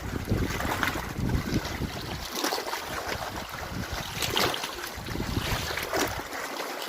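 Wind buffeting the microphone, with water splashing and lapping around a kayak; a few louder splashes come at intervals of roughly a second and a half to two seconds. The low wind rumble drops away about two seconds in.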